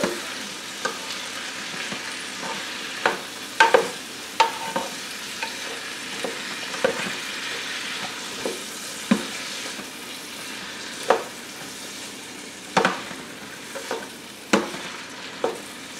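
Vegetables sizzling as they sauté in an electric multicooker's pot: a steady hiss, while a spoon stirs them and knocks and scrapes against the pot about once a second, at irregular intervals.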